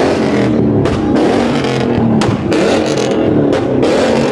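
Car engine revving loudly, its pitch rising and falling.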